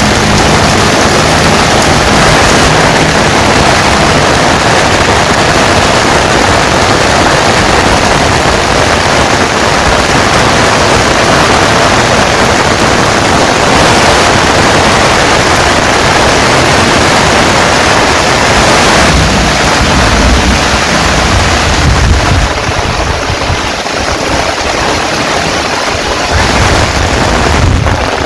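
Heavy rain falling: a loud, steady hiss that eases slightly about twenty-two seconds in.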